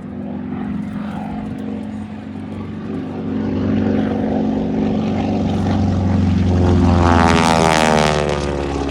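Propeller airplane flying past, its engine drone growing louder to a peak about seven seconds in, then dropping in pitch as it passes by.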